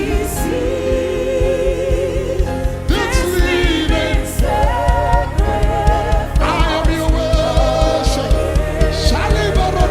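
Gospel worship song: voices holding long sung notes with vibrato over a band with a steady beat.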